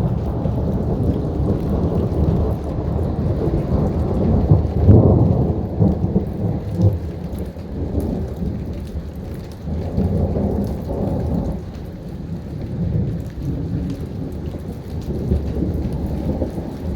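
Distant thunder rumbling on and on without a break, swelling about five seconds in and again around ten seconds, with rain falling steadily throughout.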